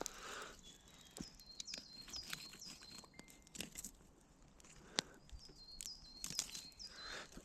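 Small birds chirping in short, high, repeated calls, in two runs, with faint scattered sharp clicks and crackles throughout.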